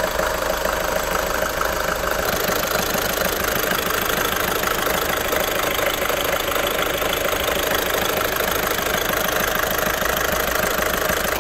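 VW 1.6 TDI four-cylinder diesel idling steadily with its usual fast, even diesel clatter, running well on a newly fitted EGR valve with no fault showing.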